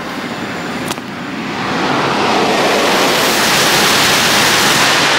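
E5 series Shinkansen passing straight through a station at high speed: a loud, steady rush of wind and running noise that swells about two seconds in and then holds. A single sharp click comes about a second in.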